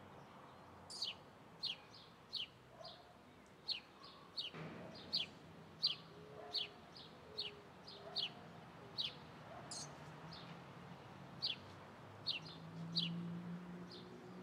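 A small bird chirping over and over: short, sharp, high notes that fall in pitch, roughly one or two a second, over a faint steady background.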